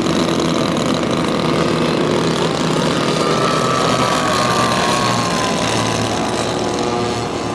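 Engines of giant-scale radio-controlled model airplanes running steadily, with one pitch sliding slowly down partway through.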